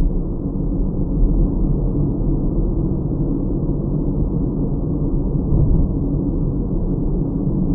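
Steady low rumble of a car driving: road and engine noise picked up inside the cabin by a dash cam.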